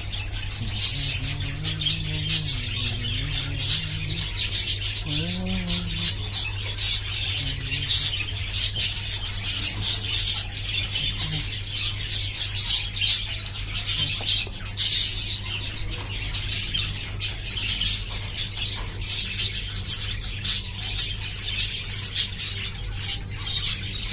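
Birds chirping rapidly and continuously in short, high chirps over a steady low hum.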